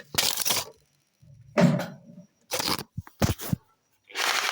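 A series of short crackling and rustling handling sounds, about six, each under a second, with silent gaps between them.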